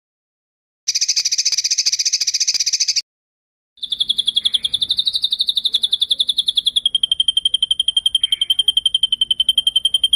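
Songbird rolling trills from a song-tutor recording: after a moment of silence, a rapid buzzy trill lasting about two seconds, a short break, then a long, fast, high trill that runs on steadily, stepping slightly lower in pitch partway through.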